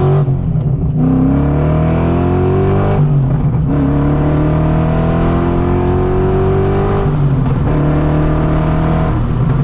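Straight-piped BMW M60 V8 in an E30 accelerating hard through the gears. The engine note climbs steadily in pitch and drops back at each upshift: just after the start, about three seconds in and again about seven seconds in.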